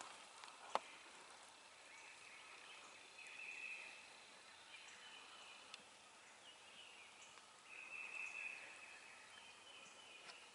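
Near silence with faint high bird trills, three of them, each lasting about a second, and a single sharp click just under a second in.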